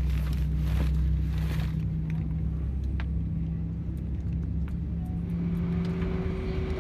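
Airliner cabin at the gate: a steady low hum from the ventilation and aircraft systems. About five seconds in, a steady higher-pitched whine joins it.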